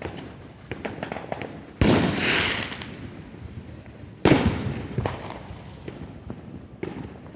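Fireworks going off: two loud bangs about two and a half seconds apart, the first followed by about a second of crackling fizz, with scattered smaller pops and cracks throughout.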